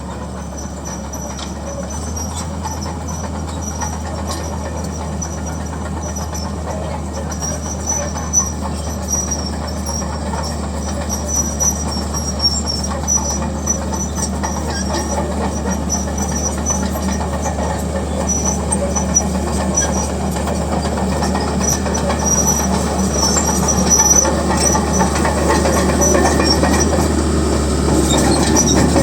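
Bulldozer's diesel engine running steadily under the clanking of its steel crawler tracks, with intermittent high squeaks; the sound grows gradually louder.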